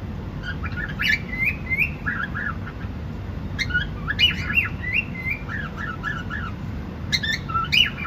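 Cockatiel chirping and squawking in quick clusters of short calls that bend up and down in pitch, with brief pauses between clusters, over a steady low background hum.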